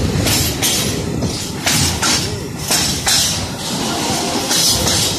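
Freight train of open gondola wagons rolling past close by: a steady rumble of wheels on the rails with repeated sharp clanks and rattles from the wagons.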